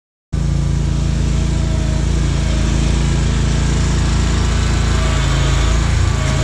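Riding mower engine running steadily, cutting in suddenly about a third of a second in after silence.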